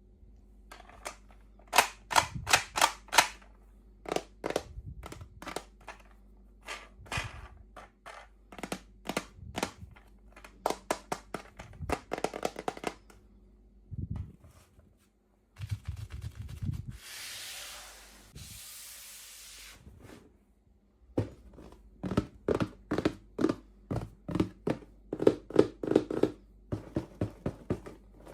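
Rapid runs of sharp clicks and taps from plastic toy packaging and pieces being handled, with a few seconds of rustling noise around the middle.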